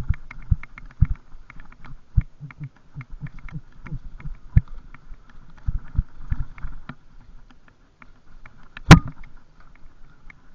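Bicycle rolling over a bumpy forest trail: irregular thumps and rattles from the bike over roots and ruts, with a light regular ticking a few times a second, and one hard knock about nine seconds in.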